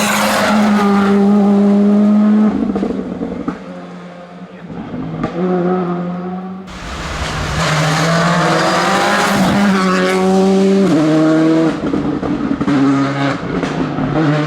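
Rally car engine at full attack, revving hard and changing up and down through the gears, the pitch climbing and dropping in steps. About two thirds of the way through, the sound changes abruptly to a car doing the same.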